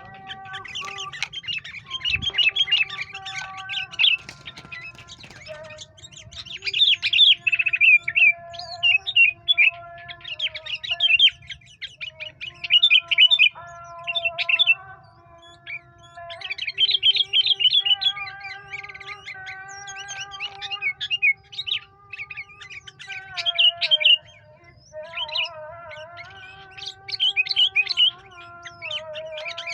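Sooty-headed bulbul (kutilang) calls played as a lure: repeated bursts of rapid, high chirps a second or two long, over a lower, steadier wavering whistle.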